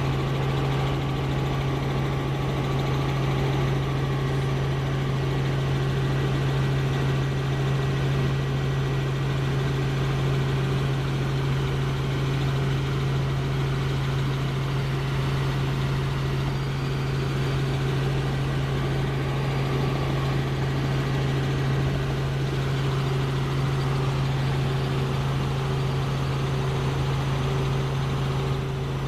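Helicopter in flight: a steady drone of engine and rotor, dominated by an unchanging low hum.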